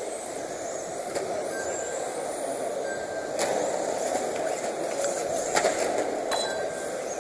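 Radio-controlled racing trucks running around the track, their motors whining and rising and falling in pitch over a steady rush of noise. There are sharp knocks about three and a half seconds in and twice near the end.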